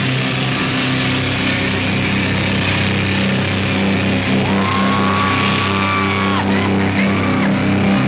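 Heavy metal band playing, with loud distorted guitars throughout. A single high note is held from about four and a half seconds in and bends away near six and a half seconds.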